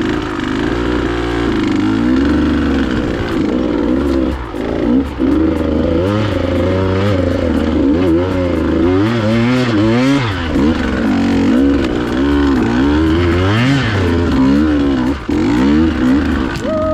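KTM 150 XC-W two-stroke dirt bike engine revving up and down over and over as the rider works the throttle on a steep, technical trail climb.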